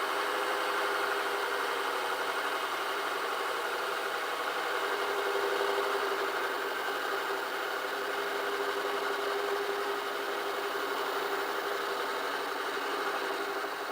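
Metal lathe running steadily, its motor and drive giving a constant hum with a steady mid-pitched tone, while a cast aluminium workpiece is turned.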